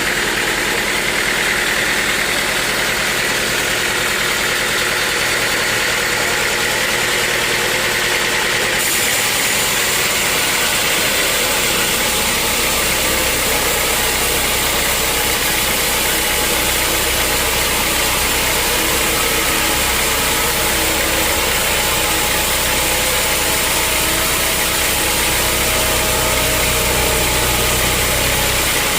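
Sawmill machinery running steadily with a loud, continuous mechanical drone. Its sound changes abruptly about nine seconds in, becoming hissier and losing a higher whine.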